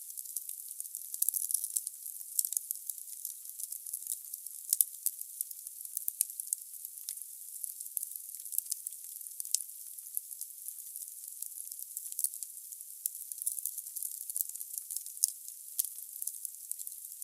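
Logs burning in a fireplace: a steady high hiss with many quick crackles and pops, the loudest pop about five seconds in.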